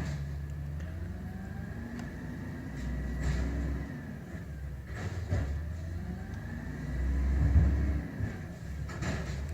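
Garbage truck engine revving up twice, the second rev the loudest, over a steady high whine, with a couple of sharp knocks.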